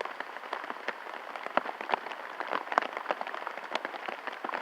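Rain falling, with many irregular drops tapping sharply on a close surface over a steady patter.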